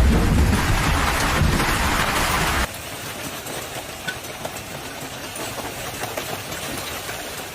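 Hailstorm: hail and rain drumming hard with a deep rumble. About two and a half seconds in it cuts abruptly to a quieter, steady patter with a few sharp ticks.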